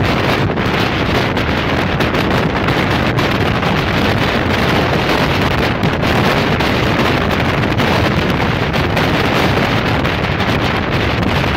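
Steady rush of a passenger train running at about 110 km/h, heard from its open window, with heavy wind buffeting the microphone.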